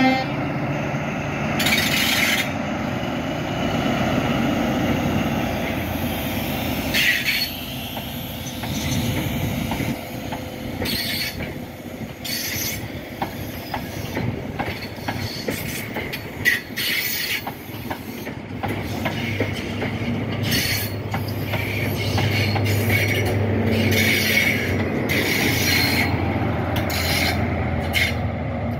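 A Class 43 HST power car's diesel engine runs as the train passes, followed by the Mk3 coaches, whose wheels make short clicks and brief squeals on the track. From about two-thirds of the way in, the low engine hum of the trailing power car grows louder as it draws level.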